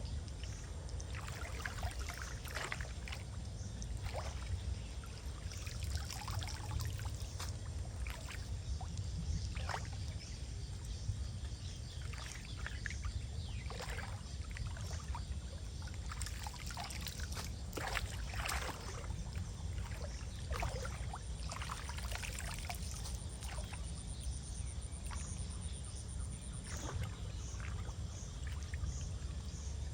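Water trickling and splashing, with irregular short splashes and scrapes over a steady low rumble.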